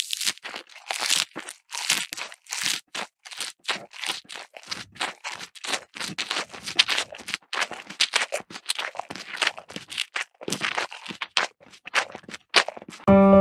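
A crunchy chewing sound effect, like an animal munching fresh grass: a quick, irregular run of crisp crunches, several a second.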